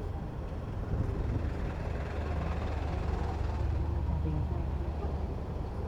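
City road traffic heard from a bicycle: a steady low engine rumble from vehicles close by, under a general street noise.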